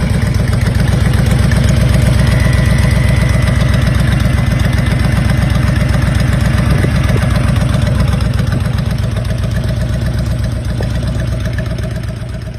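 2012 Honda Fury's 1,312 cc V-twin engine idling steadily, fading out near the end.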